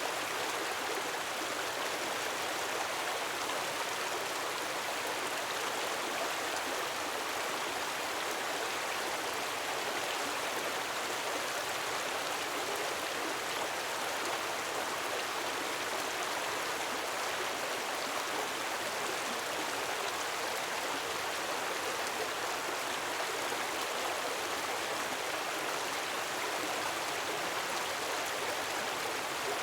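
Steady splashing of falling water from a gentle waterfall, an even rush with no swells or breaks.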